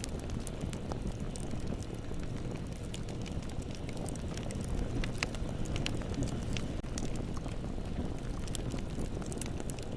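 Bonfire burning: a steady low rumble of flames with frequent small crackles and pops, a few sharper pops about halfway through.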